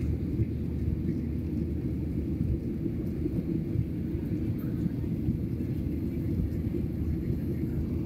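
Steady low rumble of an airliner's engines and rushing air, heard inside the cabin while the aircraft climbs after takeoff.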